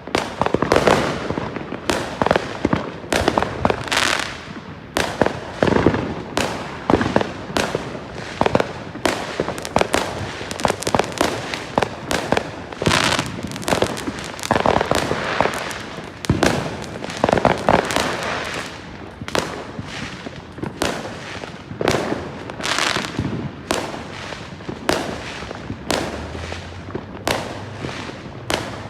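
Fireworks going off in a steady run of sharp bangs, a few a second, without a break.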